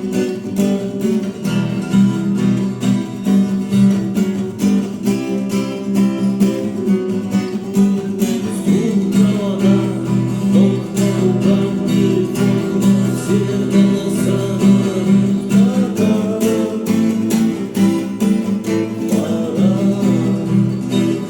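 Acoustic guitar strummed in a steady rhythm, playing a chord accompaniment.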